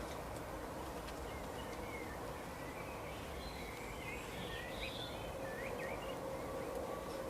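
Small birds chirping in short, quick notes, bunched in the middle few seconds, over a steady outdoor background hiss with a faint steady hum.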